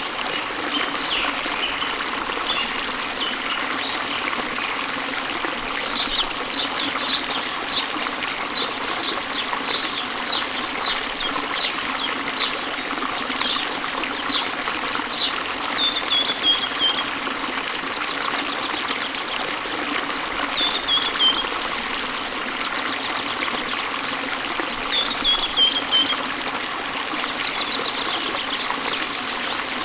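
Steady rush of falling and trickling water from a waterfall, with birds chirping over it: a run of short chirps about twice a second, then a short falling phrase repeated three times.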